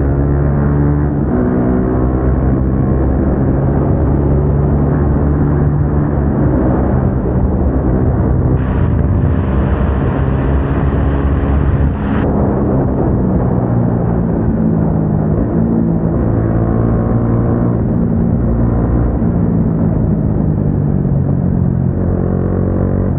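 Single-cylinder motorcycle engine with aftermarket exhaust running at steady cruising revs, its pitch drifting slightly up and down. A brief hiss comes in from about nine to twelve seconds in.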